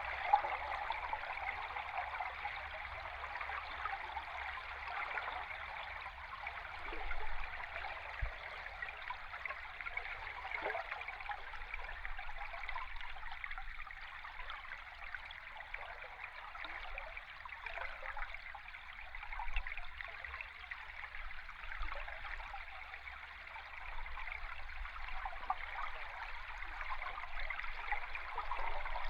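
A river stream recorded underwater: a steady rushing, gurgling flow of water with small bubbling flickers, over a faint low rumble.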